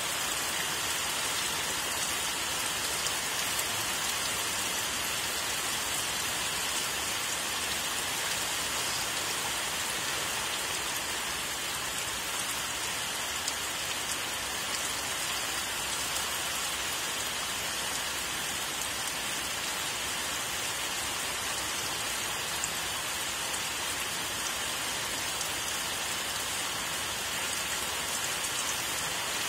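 Steady rain falling, an even hiss of many drops that holds level throughout without breaks.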